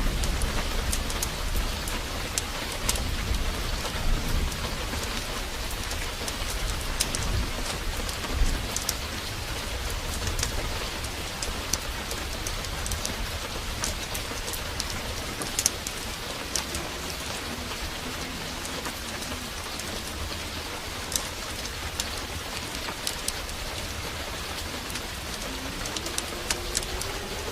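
Heavy rain falling steadily, with many scattered sharp drop ticks over the hiss and a low rumble of thunder dying away over the first several seconds.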